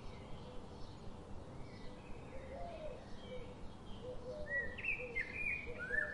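Several birds chirping and calling over a steady background hiss, with short low calls repeating throughout. Louder, higher rising chirps come in about two-thirds of the way through.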